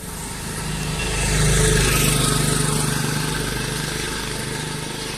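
A motor vehicle's engine running close by, with a steady low hum, growing louder over the first couple of seconds and then slowly easing off as it passes.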